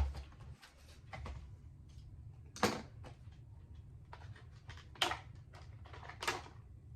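Toy packaging being opened by hand: a few sharp clicks and short plastic-and-cardboard rustles, four in all, over a low steady hum.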